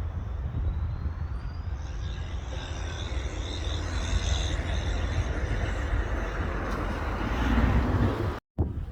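Airliner engines growing louder as the aircraft approaches, a high whine over a rushing noise, with wind rumbling on the microphone underneath. The sound cuts off abruptly near the end.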